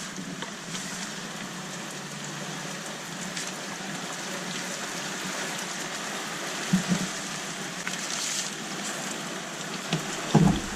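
Steady hiss of tropical-storm rain, with scattered drop ticks. There is a low thump about seven seconds in and a louder one near the end.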